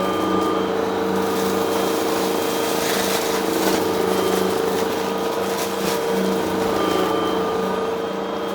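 Vacuum cleaner running steadily, with crackling and clicking as crunchy debris is sucked up, thickest a few seconds in.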